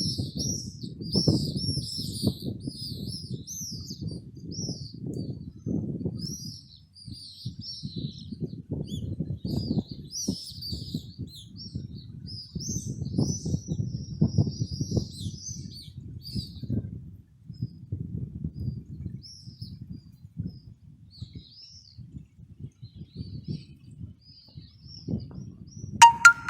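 Many small birds chirping and twittering together, densely at first and more sparsely later, over a low irregular rumble. Near the end comes a sharp click with a brief ringing tone.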